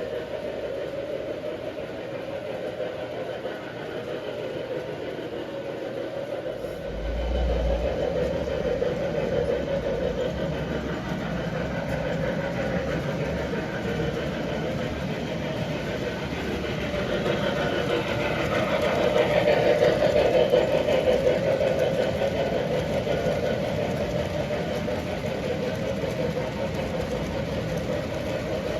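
Model train running along layout track with a steady rumble and rattle. It gets louder and nearer about two-thirds of the way through, then eases off, with a low thump about seven seconds in.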